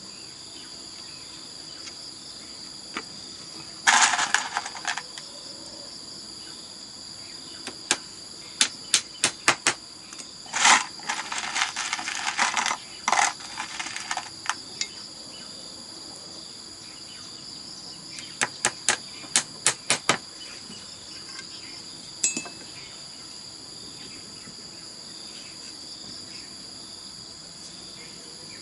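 Insects chirring steadily and high-pitched throughout, with several runs of sharp knocks and clicks: a loud rattle about four seconds in, a string of quick evenly spaced knocks and rattling from about eight to fifteen seconds, and another short run of knocks near twenty seconds.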